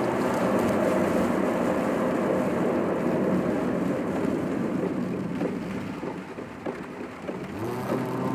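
Road and engine noise of a moving car, heard from inside the cabin. It eases off somewhat around six seconds in, and a new steady hum comes in near the end.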